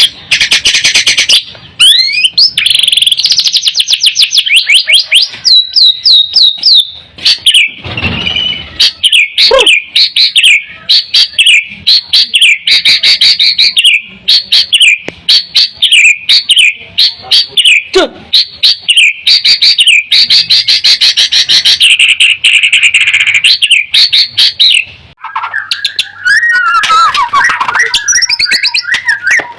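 White-rumped shama singing loudly in fast runs of repeated chirping notes. Near the end there is a brief pause, then the song shifts to lower, rougher notes.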